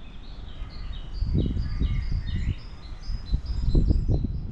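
A songbird singing a long run of short, high repeated notes, over louder low rumbling gusts of wind on the microphone that swell twice.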